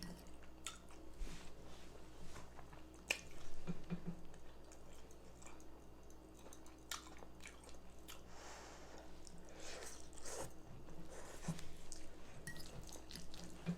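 Close-miked chewing of baked chicken and rice: wet mouth sounds with scattered short clicks.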